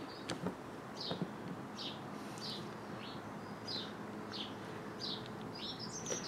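A small bird chirping over and over, about one short, slightly falling chirp every two-thirds of a second, breaking into a quicker twitter near the end. A few faint clicks sound early on as gloved hands handle a rubber hose.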